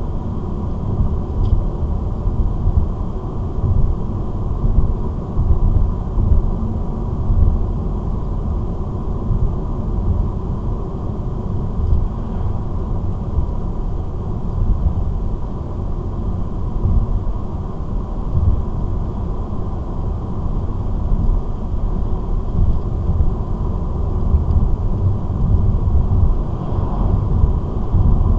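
Steady low road rumble inside a car cruising at about 80 km/h: engine and tyre noise on the road.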